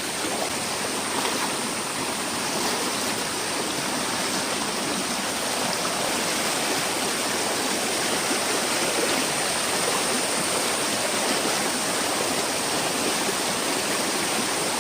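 Lake overflow stream rushing steadily down a small waterfall; the water is flowing very fast.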